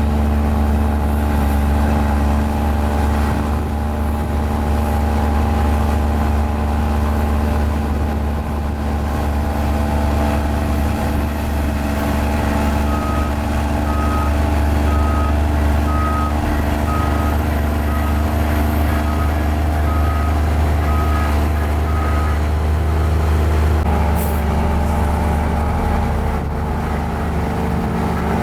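Diesel engine of a mini Komatsu bulldozer running steadily. A reversing alarm beeps about once a second through the middle of the stretch.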